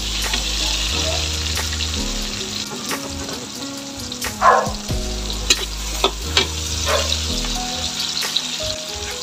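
Garlic, onion and tomato sizzling in hot oil in a large metal wok, while a metal spatula stirs and scrapes across the pan with sharp clinks now and then. The loudest scrape comes about four and a half seconds in.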